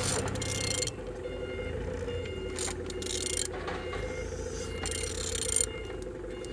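Used engine being turned over by hand at the crankshaft: several short bursts of mechanical scraping and ratchet-like clicking over a steady hum. The engine turns smoothly, without binding.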